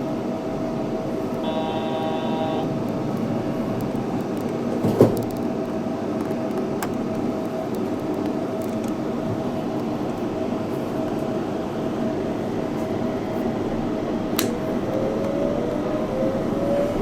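Yurikamome 7300-series rubber-tyred automated train running, heard from inside the front car: a steady running noise with a constant motor tone. A brief stack of tones sounds about a second and a half in. A single knock about five seconds in is the loudest moment, and near the end a motor whine rises in pitch.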